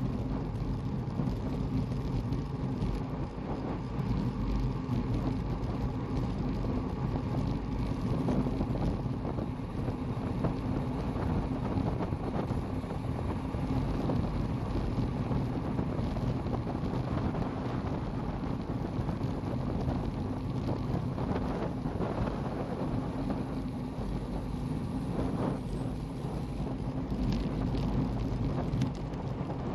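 Wind rushing over the microphone and road noise from a racing bicycle in motion during a road race, a steady rumble with no break.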